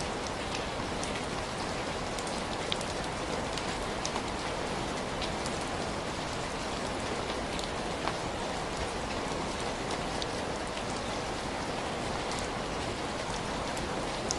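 Steady rain falling, with scattered small ticks standing out here and there.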